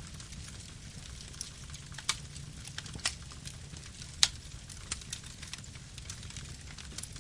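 Wood campfire burning: a steady low rumble with scattered small crackles and a few sharper pops, the loudest about four seconds in.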